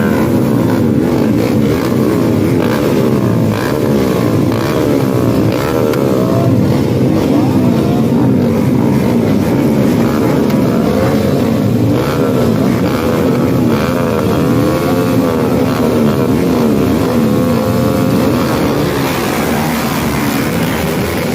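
Several small underbone motorcycle engines racing together on a dirt track, overlapping, each rising and falling in pitch as the riders rev, shift and back off.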